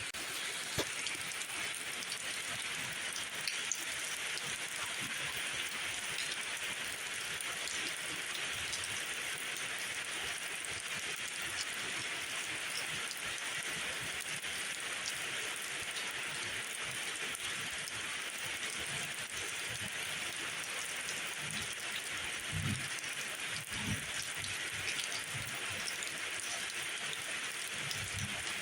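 Steady rainfall, an even hiss of drops pattering on surfaces, with scattered faint drip ticks and a few soft low thuds late on.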